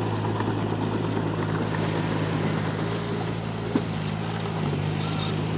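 Komatsu D31P bulldozer's diesel engine running steadily, with one short sharp click about four seconds in and a slight change in engine pitch just under five seconds in.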